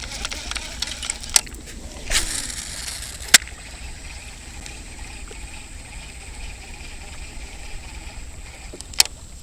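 Strong wind buffeting the microphone in a steady low rumble, with a brief whoosh about two seconds in and a few sharp clicks.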